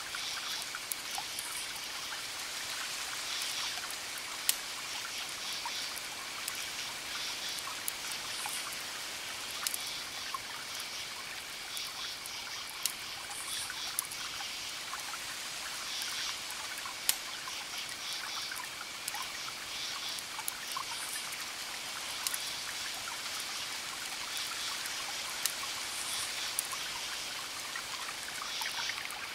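Wood fire crackling: a steady hiss with scattered small crackles and a few sharp pops. Short bouts of high chirping recur throughout.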